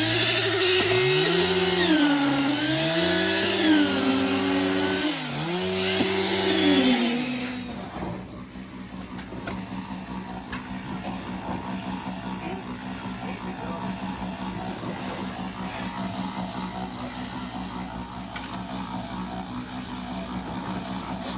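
An engine revving up and falling back several times, then settling, about seven seconds in, into a quieter steady run.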